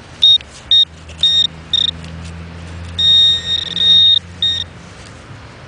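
Garrett Pro-Pointer pinpointer probe beeping at one high pitch. Four short beeps come in quickening succession, then a steady tone of about a second and one last short beep: the probe closing in on a coin in the dug plug.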